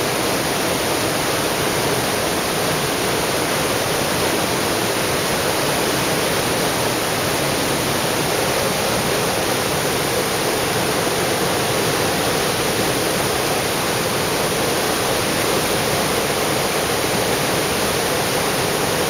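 Flood water pouring over a dam spillway: a loud, steady rushing roar.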